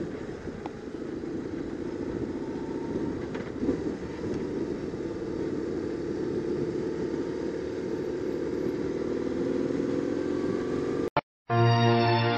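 BMW R850R boxer-twin motorcycle engine running steadily while riding at town speed. It cuts off suddenly about eleven seconds in, and after a brief silence background music begins.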